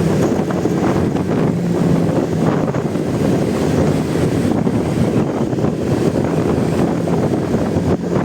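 Motorcycle engine running under heavy wind rush on the rider's camera microphone while riding in traffic. The engine note fades in and out.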